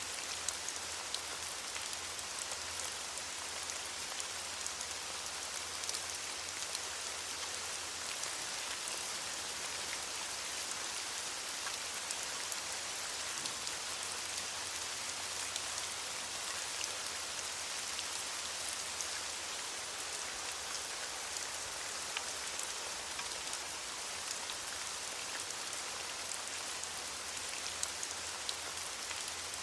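Steady rain falling on leaves, a dense even hiss with many small drop ticks scattered through it.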